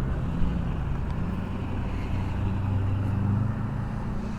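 Steady riding noise from an e-bike on the move at night: a continuous low rumble and hum with a noisy haze.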